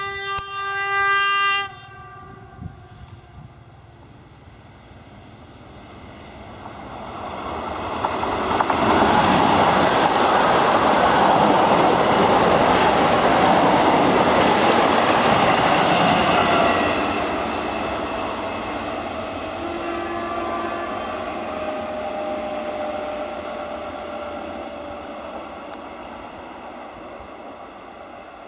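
Newag Impuls electric multiple unit sounding its horn in a blast of about two seconds as it approaches. The train then passes close at speed with wheels clattering over the rail joints, loudest as it goes by. It fades away with a steady tone that sinks slowly in pitch.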